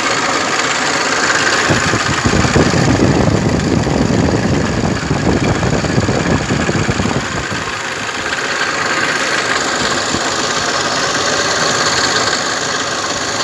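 Toyota Innova diesel engine idling with the A/C switched on, running louder with the compressor engaged, and louder still for a few seconds in the first half. The added noise comes from the A/C compressor, which the mechanic traces to a worn, binding compressor bearing.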